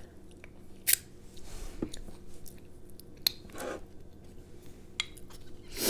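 A person chewing and eating close to the microphone: soft mouth smacks and wet chewing with a few sharp little clicks.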